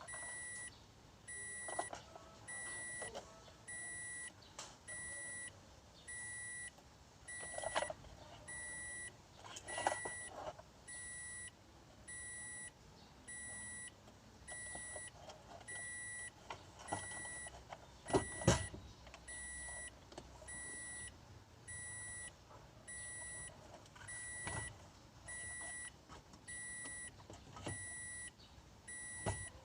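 Car warning chime beeping steadily, about once a second, with scattered clicks and knocks from hand work on the car and one louder thump about halfway through.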